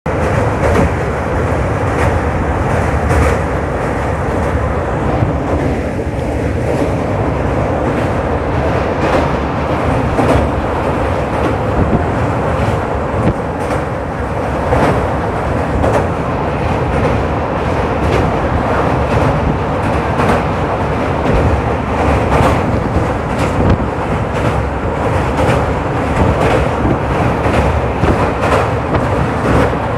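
A train rolling across a steel truss bridge, heard from inside the carriage: a steady, loud rumble of wheels on rails with frequent clicks and rattles.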